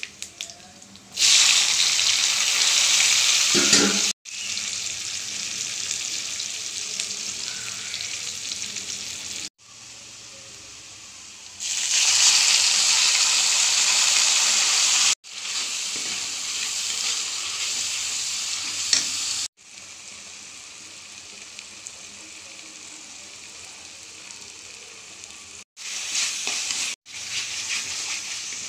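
Oil sizzling in a cooking pan as food fries. The sizzle is a steady hiss that jumps in loudness at several abrupt cuts. It is loudest for a few seconds near the start and again about halfway through.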